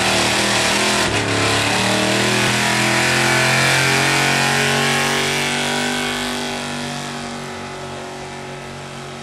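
Pulling truck's engine running hard at high revs, steady in pitch, then fading over the last few seconds.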